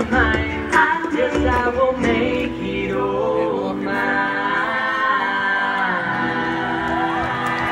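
Music with singing: voices holding and sliding between sustained notes, with a low beat in the first two seconds that then drops away.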